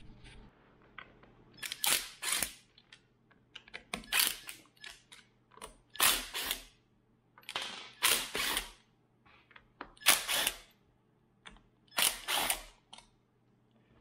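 Cordless impact driver with a Phillips bit backing screws out of a plastic vacuum handle: six short bursts of rapid hammering, about two seconds apart.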